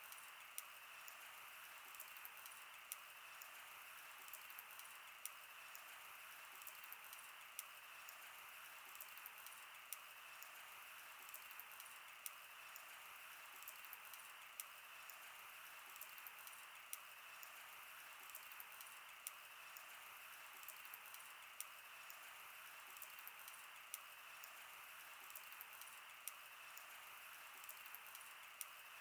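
Wood fire crackling: a faint, steady hiss with sharp pops and snaps coming every second or so.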